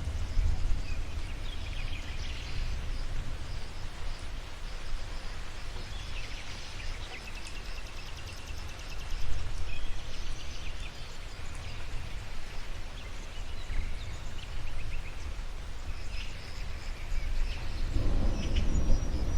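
Outdoor nature ambience: birds chirping in scattered short trills over a steady low rumble and hiss of rain. In the last second or two a roll of thunder starts to build.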